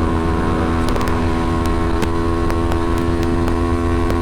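Kawasaki Ninja 250R's parallel-twin engine running at a steady cruising speed, its note holding one pitch, with heavy wind noise on the microphone and scattered sharp ticks.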